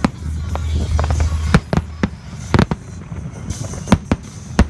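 Fireworks display: aerial shells bursting in a string of sharp bangs at uneven intervals, about eight in under five seconds.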